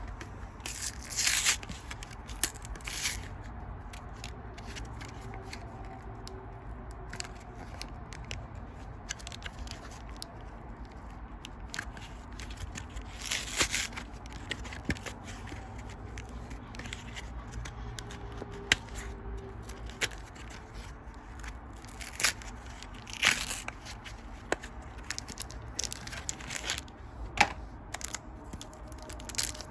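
Foil booster-pack wrappers being torn open and crinkled, with cards handled in between. There are several short, loud ripping bursts and fainter rustling and ticks.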